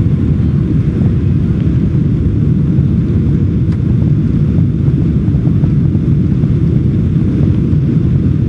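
Boeing 747-400's four jet engines at takeoff power, a loud, steady low rumble.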